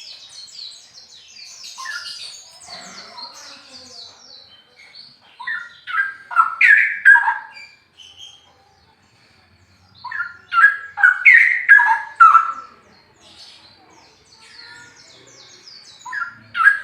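Straw-headed bulbul singing in loud, rapid, bubbling phrases of varied gliding notes, three bursts of about two to three seconds each with short pauses between. Softer, higher chirping fills the first few seconds.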